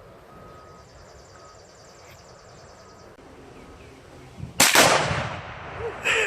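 A Tannerite charge packed inside a microwave detonates once, about four and a half seconds in: a single sharp, very loud blast with a long echoing tail. The blast blows out the side of the microwave. Before it, a faint beeping repeats intermittently.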